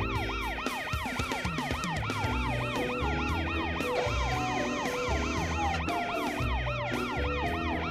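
Cartoon emergency-vehicle siren yelping in quick rising-and-falling sweeps, several a second, over background music with a steady bass line.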